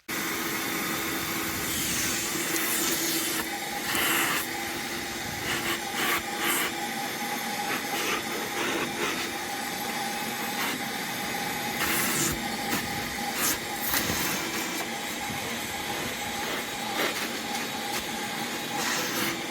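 A machine running with a loud, steady hiss and a faint steady hum, broken by short, sharper surges every second or two.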